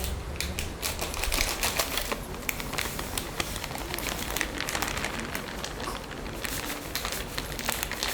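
Dense, irregular crackling and clicking.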